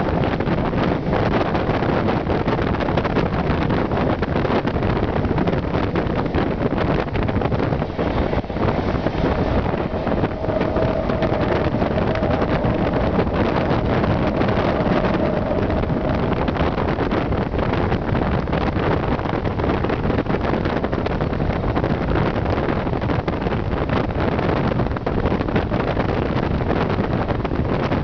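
Wind rushing over the microphone at the open window of a moving passenger train, over the steady running noise of the train on the track. A faint steady tone comes in for several seconds midway.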